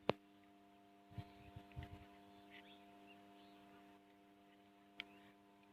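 Near silence with a faint steady hum. A sharp click comes just after the start, a few faint knocks follow a second or so later, and there is a short tick about five seconds in.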